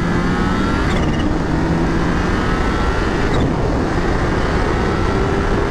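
Kawasaki Ninja H2's supercharged engine under way on the road, its note holding steady and then slowly rising in pitch as the bike pulls, under heavy wind rush.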